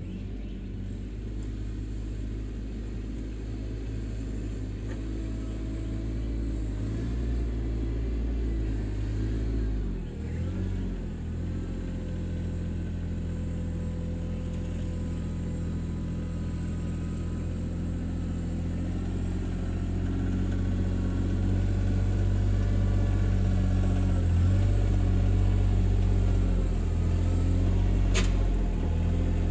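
RK24 subcompact tractor's 3-cylinder Yanmar diesel running steadily while the tractor works the swale with a box scraper. The engine note dips briefly about ten seconds in, and there is one sharp click near the end.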